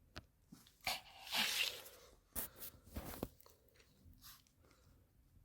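A Pomeranian chewing crunchy food, with irregular crunches and clicks that are densest in the first three seconds and then trail off.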